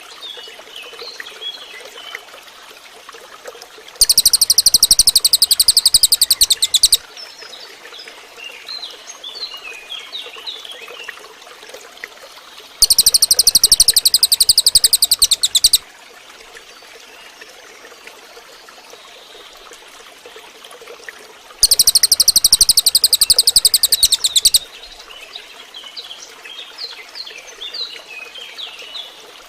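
Cililin bird song: three loud, very fast, high-pitched buzzing trills, each about three seconds long and about nine seconds apart. Between them are softer scattered chirps over a faint hiss.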